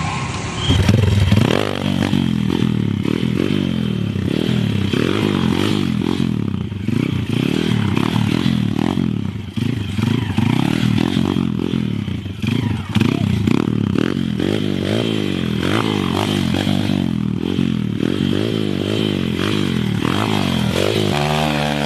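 Motorcycle engine revving up and down over and over as the throttle is worked.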